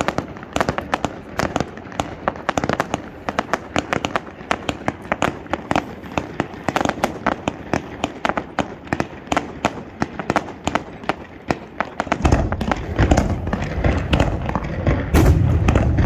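Aerial fireworks display: a dense crackle of many small sharp bursts, several a second. About twelve seconds in, a deep rumble of heavier bursts joins and grows louder.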